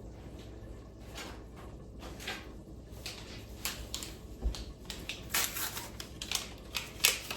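Kitchen handling sounds: a string of light knocks, clicks and rustles as items are picked up and set down. They get busier about halfway through, with a sharper knock near the end.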